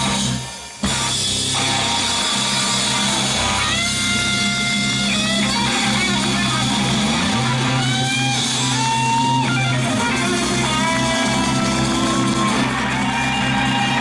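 Live band playing an instrumental rock passage: a lead guitar holds and bends long notes over bass and drum kit. A brief drop-out about half a second in.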